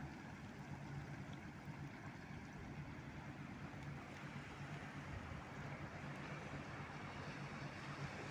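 River cruise ship's engines giving a steady low hum as it passes, over a constant wash of water.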